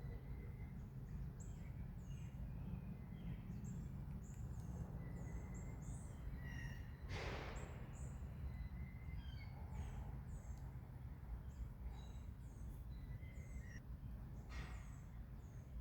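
Small birds chirping and calling over and over in woodland, with a steady low rumble underneath. Two longer harsh sounds stand out, one about seven seconds in and one near the end.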